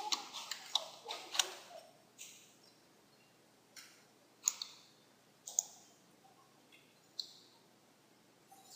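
Computer mouse clicking: a quick run of clicks in the first second and a half, then single clicks every second or two.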